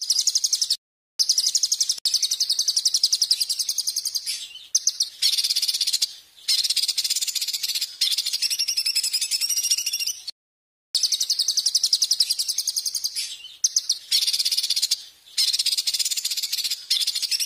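Edited songbird master track for training cage birds: a small songbird's rapid, high-pitched trilling and chattering in long runs. It cuts to dead silence abruptly twice, about a second in and again after about ten seconds.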